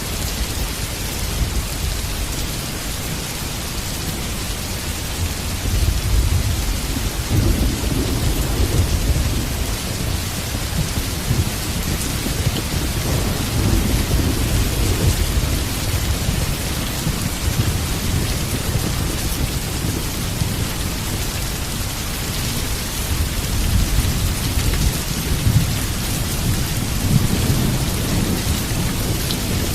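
Heavy rain falling steadily, with low rolling thunder that swells about six seconds in and rumbles on and off through the rest.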